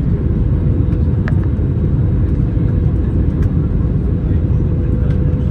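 Steady cabin noise inside an Airbus A321neo jet airliner: a loud, even rumble of engines and airflow, with a thin steady hum on top.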